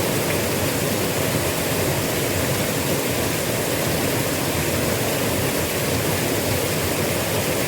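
Small river's water rushing steadily, an even noise that does not change.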